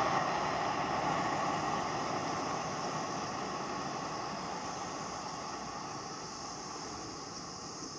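Diesel-hauled passenger train rolling away, its wheel-on-rail noise fading steadily as it recedes.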